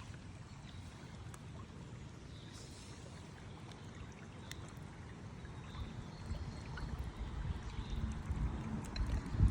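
River water running and trickling, with a few faint clicks. Low wind rumble on the microphone builds over the last few seconds.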